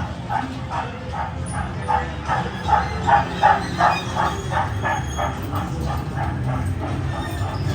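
A rapid, evenly spaced series of short bark-like yaps, about three a second, that grows louder and then fades out over about five seconds. Underneath is the steady low rumble of the train running.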